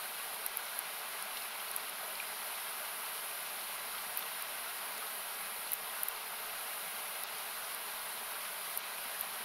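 Steady rush of a river or waterfall, equalised so that it sounds like hiss, with the wood campfire crackling now and then: about eight sharp, irregular pops.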